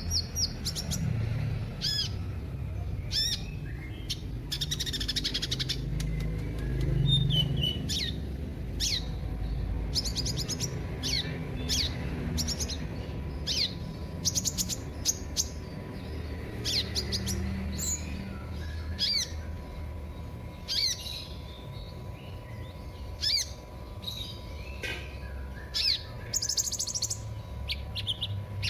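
A sunbird (the bird Indonesians call 'kolibri') calling: a long run of short, sharp, high chirps, irregularly spaced, each dropping quickly in pitch.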